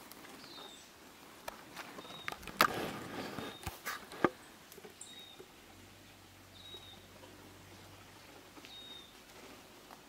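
A bird calling in short high single notes, one every second or two, over a quiet bush background. Between about one and a half and four and a half seconds in comes a run of sharp cracks and knocks, two of them much louder than the rest, like handling or steps on twigs.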